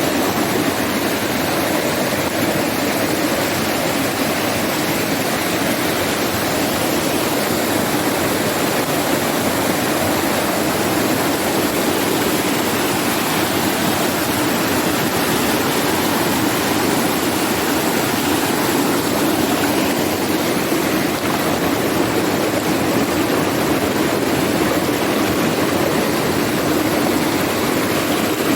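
Flowing river water rushing steadily, an even, unbroken sound.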